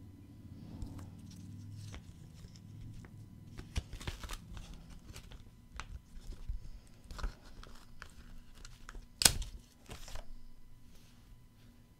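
Packaging and paper being handled: rustling, crinkling and scattered light taps and clicks, with one sharper snap about nine seconds in.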